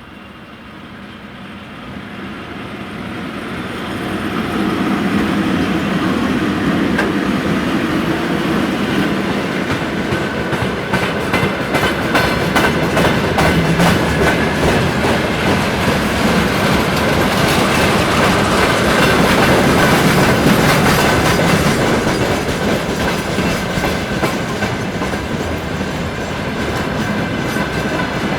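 Freight train hauled by a VL80 electric locomotive crossing a rail bridge. It grows louder over the first five seconds as it approaches, then becomes a steady loud rumble with the dense clatter of wheels over rail joints.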